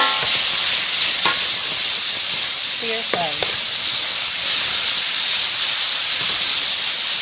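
Beef strips frying in butter and sauce, a steady high sizzle, stirred with a wooden spatula that knocks now and then against the metal pan.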